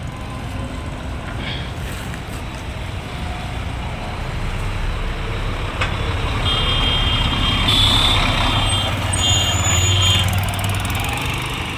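A large diesel bus engine running close by, its rumble growing louder about halfway through, with a high-pitched beeping sounding on and off in the second half.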